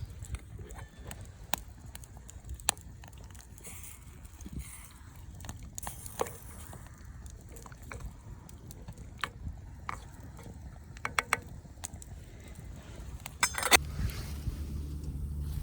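Scattered sharp clicks and light clinks from campfire cooking, with a quick run of clicks and then a louder short clatter near the end.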